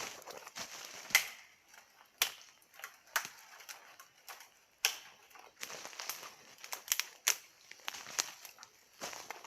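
Small campfire crackling, with irregular sharp pops over a soft hiss. The firewood seems damp and is burning poorly.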